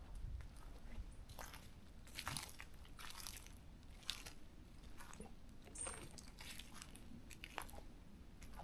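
Footsteps crunching on dry leaf litter and twigs on a forest trail, roughly one step a second.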